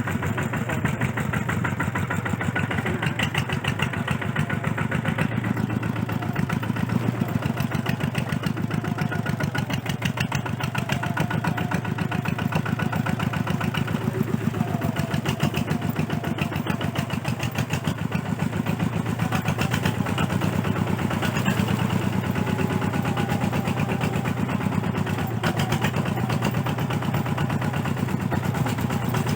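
Kubota RT140 single-cylinder diesel engine running steadily, with a rapid, even beat of firing strokes.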